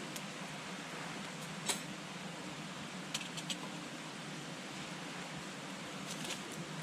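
Wood campfire burning with a steady low hiss and scattered sharp crackles and pops: one strong pop a couple of seconds in, a quick run of three a little later, and a few more near the end.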